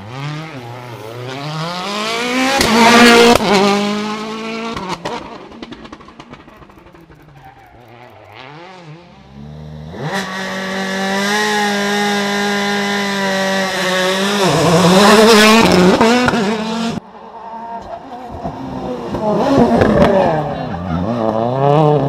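World Rally Cars passing at speed one after another: each engine note climbs as the car approaches and drops in pitch as it goes by. The sound cuts abruptly from one pass to the next, about ten seconds in and again near the end.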